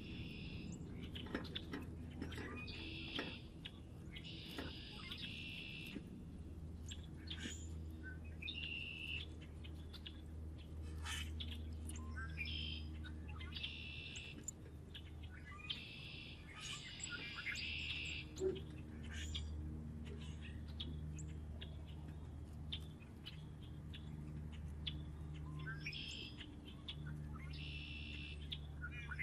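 Wild birds chirping and singing, in short song phrases repeated every few seconds with quick chirps between them, over a steady low rumble.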